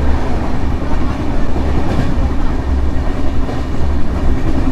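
Express passenger train running at speed: a steady deep rumble with rail and wheel noise.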